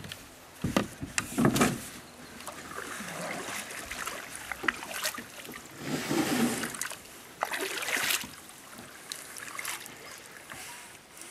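Kayak paddle strokes in water: irregular dips and splashes about every one to two seconds.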